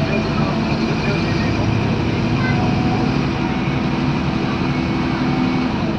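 Scania N230UD double-decker bus's five-cylinder diesel engine running steadily while the bus is under way, heard from on board with road and body noise.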